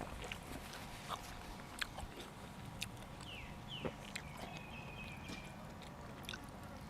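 A person chewing and biting food close to the microphone: small irregular clicks and crunches of eating.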